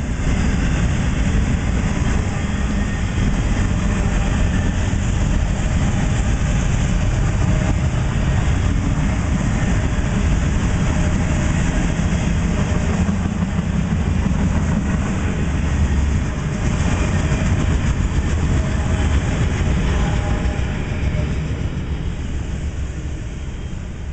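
Freight train of autorack cars rolling past, steel wheels on the rails making a steady rumble with clickety-clack. It fades a little near the end.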